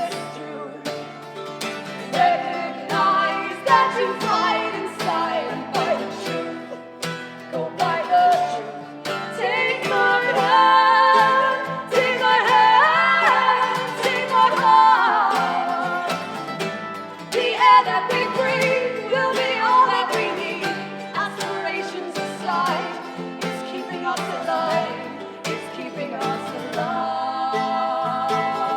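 Live folk song: acoustic guitar strumming steadily under singing voices that rise and glide in pitch, loudest through the middle.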